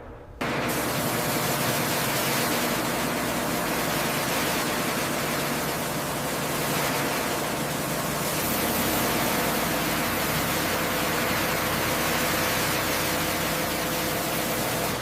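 A loud, steady hiss with a faint hum beneath it, starting abruptly about half a second in.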